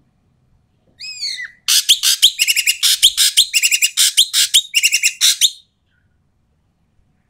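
Ekek keling bird calling: a few falling whistled notes, then a loud run of harsh, rapid chattering notes lasting about four seconds. The voice is loud and harsh, the kind of call used as a lure recording to set off quiet birds.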